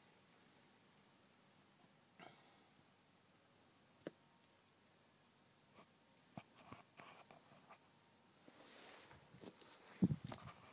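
Insect chirping faintly in an even, high-pitched pulse, about four chirps a second, over quiet outdoor background. Scattered footsteps and small knocks, with a louder thump about ten seconds in.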